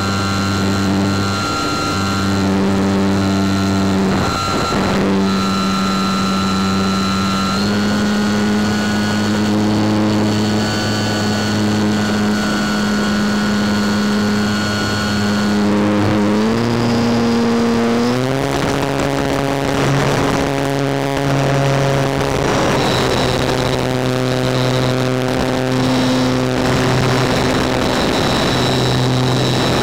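Radio-controlled motor glider's motor and propeller running steadily, heard from a camera on board the plane, over a rush of air. A little past halfway the pitch steps up twice as the throttle is opened.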